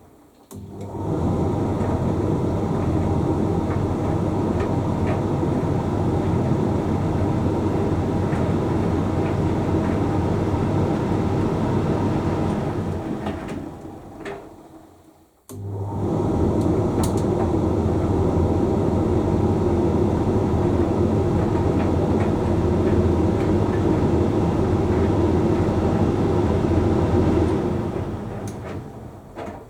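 Hoover Link X Care condenser tumble dryer running mid-cycle: a steady hum of motor, fan and tumbling drum. About halfway through it runs down to a stop, then starts again abruptly a second or so later, the pause in which the drum changes direction. It runs down again near the end.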